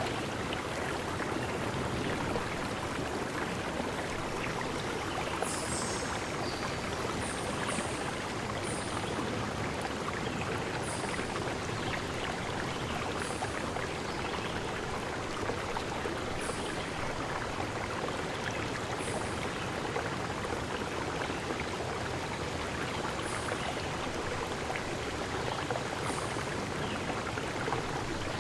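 Steady rushing of a forest stream. From about five seconds in it is joined by short, high chirps that come every second or two.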